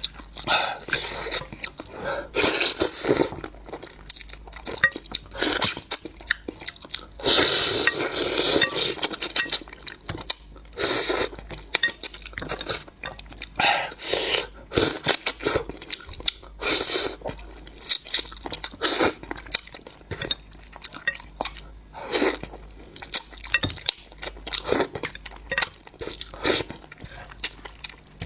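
Close-miked eating sounds: irregular crunching and chewing, with light clinks of tableware.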